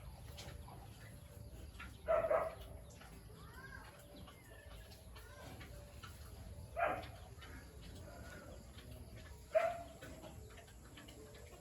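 Three short animal calls, about 2, 7 and 9.5 seconds in, with faint bird chirps between them.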